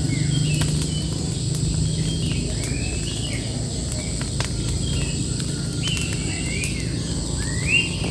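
Birds singing, with repeated rising whistled notes about once a second; the loudest comes near the end. Under them runs a steady low rumble, with a few sharp clicks scattered through.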